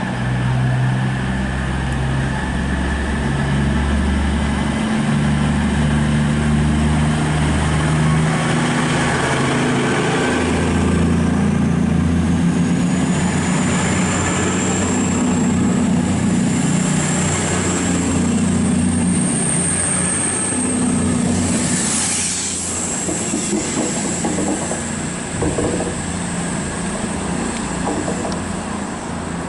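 Class 221 Super Voyager diesel-electric unit pulling away, its underfloor diesel engines running under load with their pitch shifting in steps. A thin high whistle sounds for several seconds past the middle, and the sound grows a little quieter near the end.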